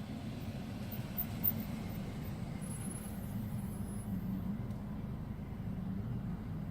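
Steady low hum of a car running, with no change in pitch.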